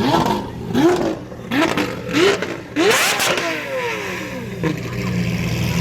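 Supercar engine revved hard in a series of quick blips, about five in three seconds, each pitch rising and dropping. About halfway through the revs fall away in one long drop and settle to a steady lower running note.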